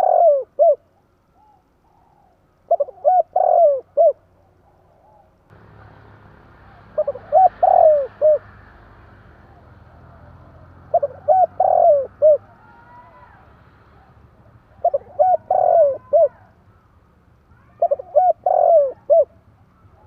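Spotted dove (tekukur) cooing: a phrase of several short coos repeated about every four seconds, five times in all. A low steady hum comes in underneath about five seconds in.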